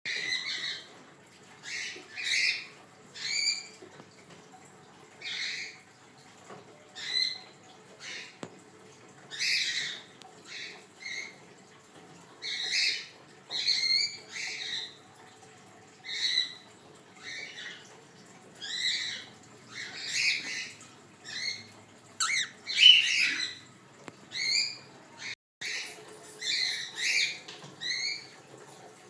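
Cockatiels calling repeatedly: short, harsh squawking calls, one every second or so, some sliding in pitch, with a louder cluster of calls about three quarters of the way through.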